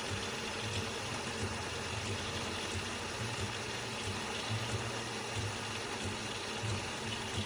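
De'Longhi Magnifica Start bean-to-cup coffee machine's pump running with a steady hum, water being pushed through as it brews.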